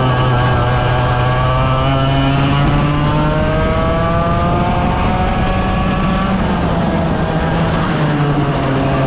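100cc two-stroke racing go-kart engines running hard under a steady low drone. One engine note climbs steadily in pitch from about two seconds in to about six seconds as the kart accelerates, then falls away, and starts rising again near the end.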